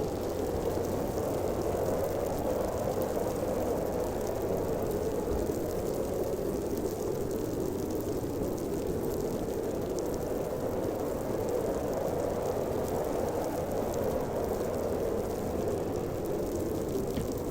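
Snowstorm wind howling steadily: a dense, even rushing noise, deepest in the lower middle range, with no breaks.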